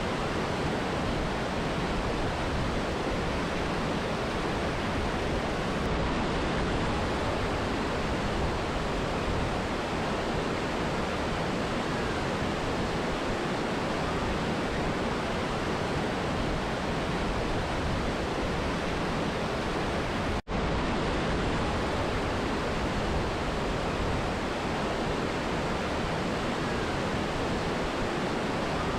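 Steady, even rushing of a mountain river and waterfall. It cuts out for a split second about two-thirds of the way through, then continues unchanged.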